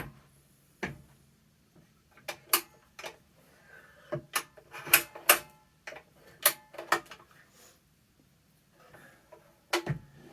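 Sharp clicks and clunks of plastic and metal parts being handled on an upright vacuum cleaner, irregular with short pauses between them. There is no motor sound: the vacuum is not turning on.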